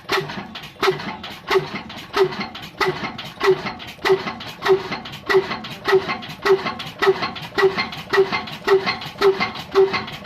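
Old stationary diesel engine running with an even, regular beat of about one and a half strokes a second.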